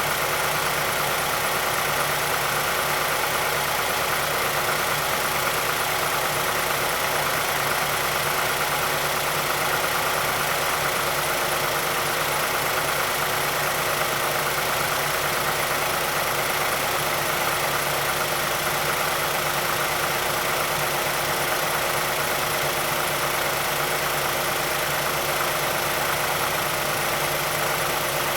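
2006 Mazdaspeed6's 2.3-litre turbocharged direct-injection four-cylinder idling steadily after a cold start. This is the engine the SSP-87 program covers for a ticking VVT actuator and a rattling, stretched timing chain at idle.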